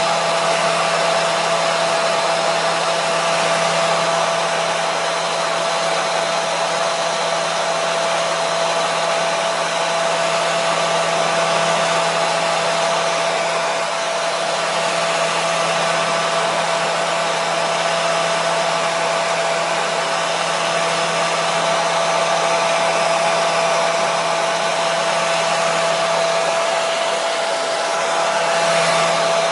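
Hair dryer running continuously at a steady speed: an even rush of blown air over a constant motor whine and a low hum, played as white noise to soothe a colicky baby.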